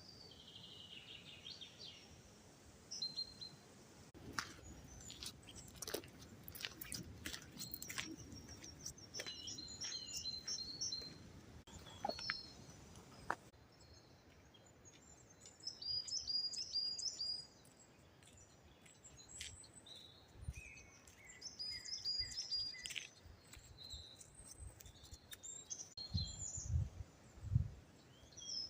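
Small birds chirping and singing, with many short high calls and repeated phrases, over scattered sharp clicks and crunches.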